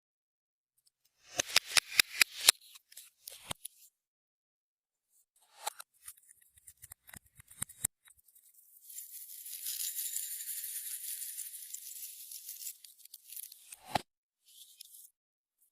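Hands working clear slime with glitter: a quick run of about eight sharp clicks and pops about a second in, then scattered smaller clicks. A few seconds of fine, rattling hiss follow, ending in a single thump.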